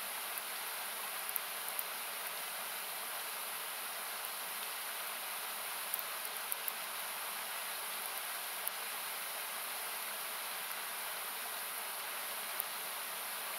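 Steady rushing of a nearby river, with narrow notches cut from it by an equalizer so it comes across as an even hiss. A few sharp crackles of a wood campfire pop through it at irregular moments.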